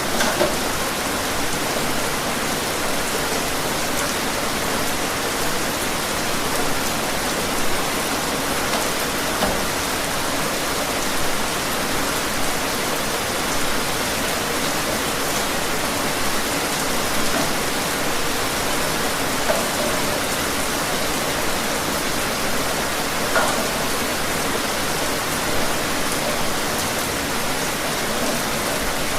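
Steady rain falling outdoors, an even hiss with occasional louder individual drops striking a surface.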